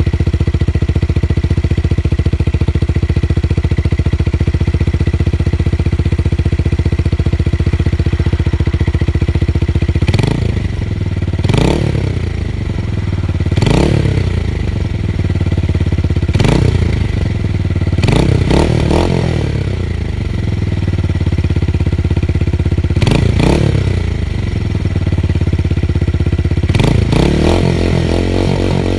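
Motorcycle with a tuned exhaust and a deep bass note, idling steadily, then revved in several short throttle blips from about ten seconds in, each rising and falling back to idle.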